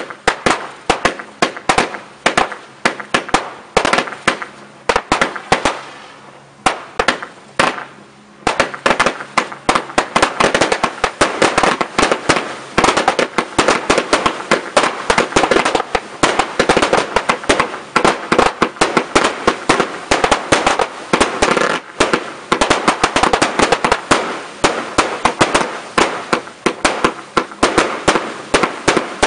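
Fireworks display: a rapid string of sharp bangs and crackles, thinning briefly a few seconds in, then building to a dense, continuous barrage for the rest.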